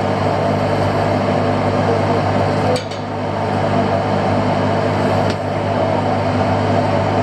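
Fishing boat's engine running steadily with a low hum and a wash of noise, with a couple of short clicks.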